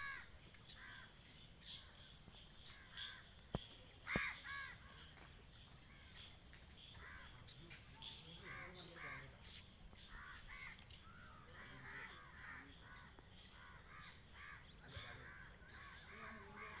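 Crows cawing over and over, several birds calling in quick succession, over a steady high-pitched whine. Two sharp clicks come about three and a half and four seconds in.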